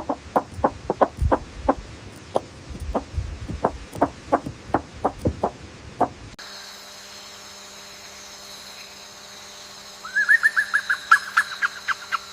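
Birds calling in two clips. First comes a run of short, sharp calls, about three a second, that cuts off abruptly about six seconds in. Then a steady hum runs under a quick trill of chirps near the end.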